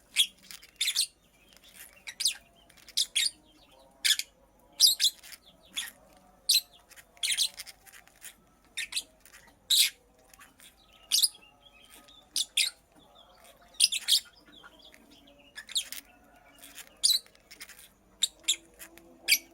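Lovebird chirping: short, sharp, high-pitched calls, about one or two a second, at uneven intervals.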